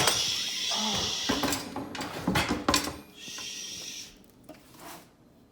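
Pot and lid on the stovetop: a few light clicks and knocks over a soft hiss, fading toward the end.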